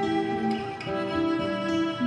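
Violin playing long held notes over acoustic guitar in an instrumental passage of a folk song, with no singing.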